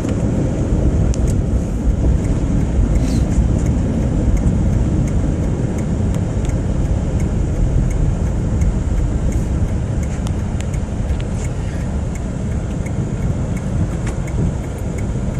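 Car interior noise while driving: a steady low rumble of tyres on the road and the engine.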